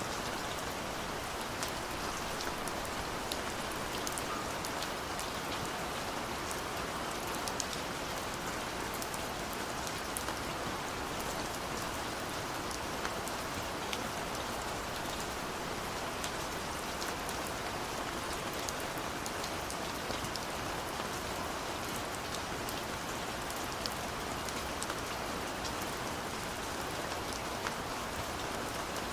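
Steady rain falling, an even hiss of rain with many small scattered drop ticks throughout.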